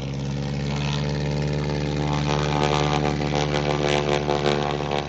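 An engine running at a steady pitch, growing louder over the first few seconds, with a rough, crackling buzz on top from about two seconds in until near the end.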